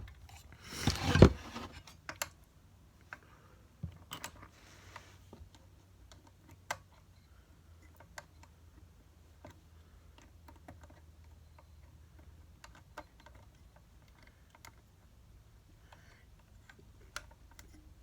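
Small irregular metal clicks and ticks of a hand tool prying at the piston pin retaining clip of a small two-stroke generator engine's piston, with a brief louder noise about a second in. A faint steady low hum lies underneath.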